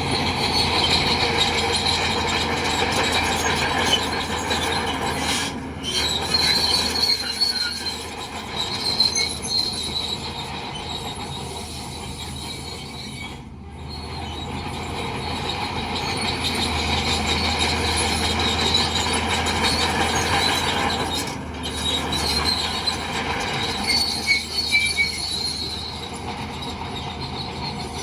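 Crawler bulldozer working: a diesel engine running under load while the steel tracks squeal and clank, swelling and easing in long waves. The sound breaks off briefly three times.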